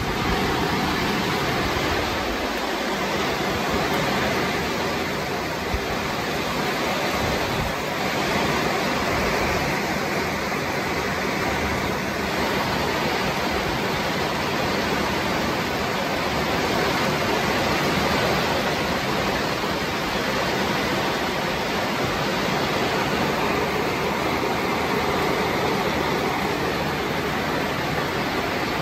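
Heavy tropical downpour: a steady, even hiss of rain, with water gushing from a roof downspout.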